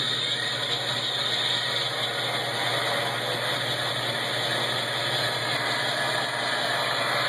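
Model train locomotive's onboard sound system playing a steady diesel engine running sound through its small speaker, after the start-engine button has been pressed.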